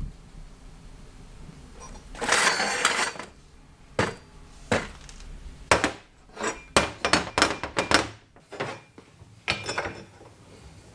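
Sharp metallic clinks and knocks of tools and parts being handled, quick and irregular, with a short burst of rushing noise about two seconds in and another near the end.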